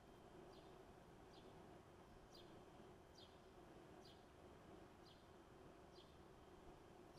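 Faint bird calling: a short, high chirp falling in pitch, repeated about once a second over a steady low background hum.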